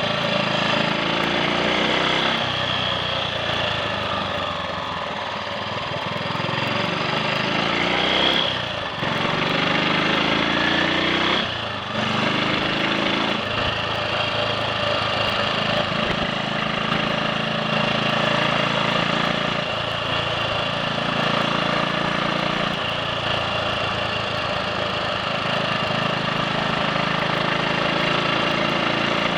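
Triumph Sports Cub's single-cylinder four-stroke engine running under way on the road. The engine note rises and drops back twice near the middle. It runs without misfiring or cutting out.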